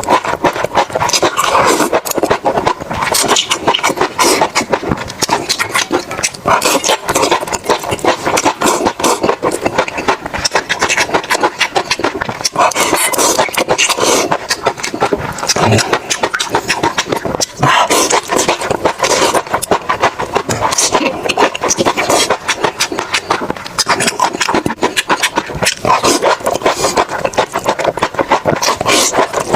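Close-miked eating: fast, continuous chewing and mouth noises, a dense run of rapid clicks and crackles.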